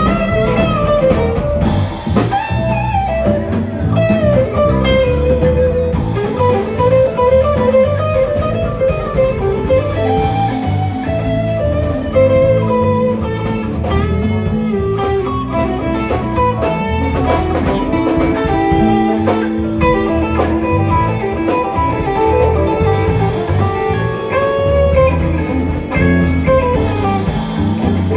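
Live rock band playing an instrumental jam: a lead guitar runs single-note lines over bass guitar and a drum kit.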